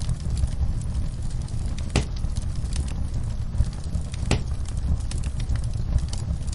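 Fire burning in a fireplace: a steady low rumble with scattered crackles and two sharper pops, about two seconds in and again past four seconds.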